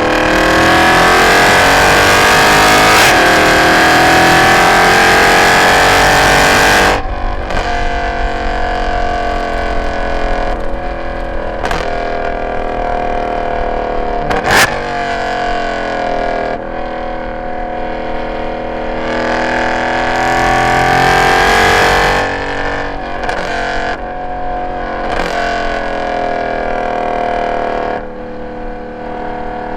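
Mercedes-Benz C63 AMG's M156 6.2-litre V8 with long tube headers, an X-pipe and no catalytic converters, loud under full throttle with its pitch rising for about seven seconds, then lifting off. It runs at part throttle with a single sharp crack about halfway, pulls hard again about twenty seconds in, and eases off near the end.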